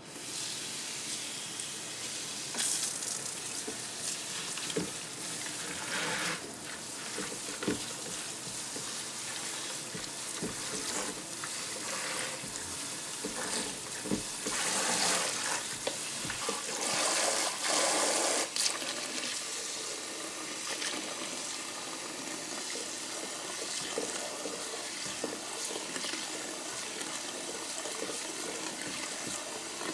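Water running from a kitchen tap into a sink as fresh parsley is rinsed. It is louder and splashier at times, most of all from about 14 to 19 seconds in, with a few light knocks among it.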